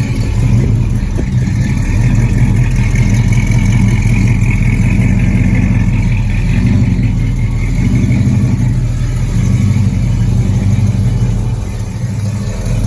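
Pontiac 455 V8 idling steadily through its exhaust, easing slightly near the end.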